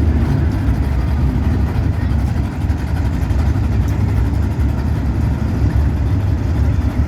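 Drag-race car engines running with a steady, loud low rumble.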